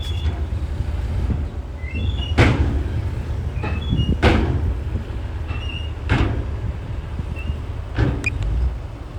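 Komatsu bulldozer's diesel engine running with a low steady drone, with sharp metallic clanks about every two seconds and a few short high squeaks.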